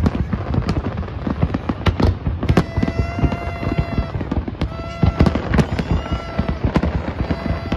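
Fireworks display: a dense, continuous run of sharp bangs and crackling bursts. A held high tone sounds several times over it, each lasting about a second.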